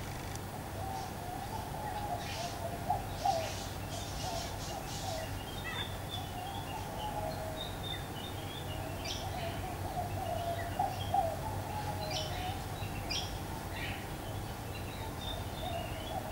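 Birds calling: a low, wavering call runs on throughout, louder twice (a few seconds in and again about eleven seconds in), under scattered short, high chirps.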